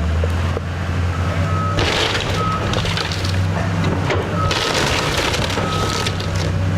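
A heavy demolition machine's diesel engine running, with loud crunching and cracking of a wooden house's debris starting about two seconds in, in two long bouts. A backup beeper sounds now and then.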